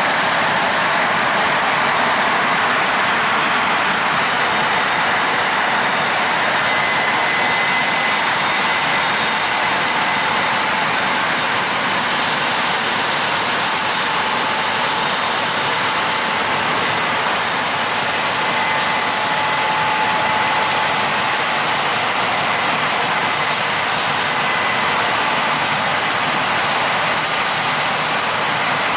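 Combine harvester running in a corn field, a loud, steady machinery noise of engine and threshing, with faint high whines coming and going.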